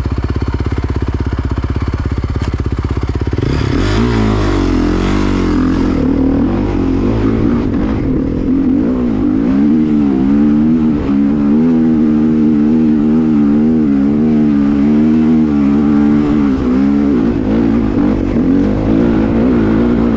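Dirt bike engine idling for about three seconds, then revved hard and pulling away, the revs rising and falling again and again as the bike makes a run at a hill climb.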